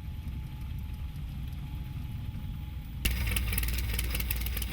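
Light airplane's piston engine running at low power, a steady low rumble. About three seconds in it turns louder and rattlier.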